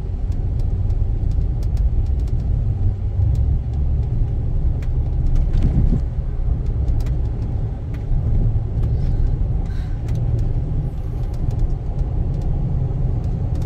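A car driving, heard as a steady low rumble of road and engine noise, with a few faint clicks.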